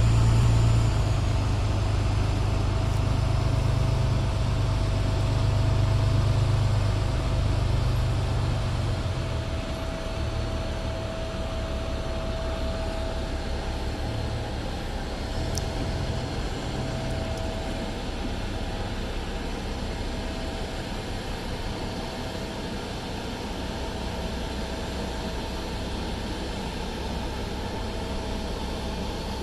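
Boeing 777-300ER's GE90 jet engines running at low power, a steady low rumble with a constant hum and hiss; the rumble eases off after about eight to ten seconds.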